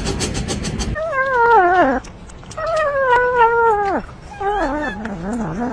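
A domestic cat yowling three times in long, wavering calls, each dropping in pitch at the end. About a second of loud rumbling noise with rapid clicks comes before the first call.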